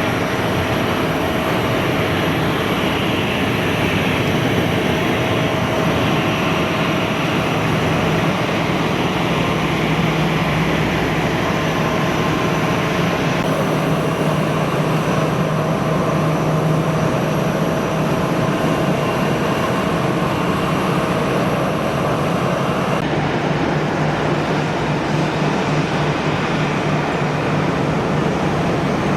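Jet airliner engines running steadily: a continuous roar with a constant high whine over it. Parts of the whine cut off abruptly about 13 seconds in and again about 23 seconds in.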